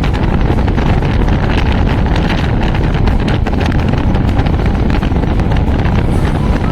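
Steady wind rush on the microphone of a moving motorcycle, with the engine running underneath.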